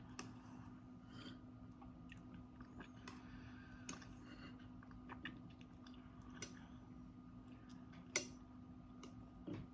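Faint chewing of instant noodles, with scattered small clicks and taps.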